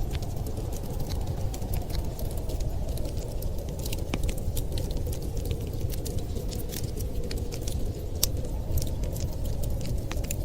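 Wood fire crackling, with irregular sharp pops and ticks over a steady low rumble.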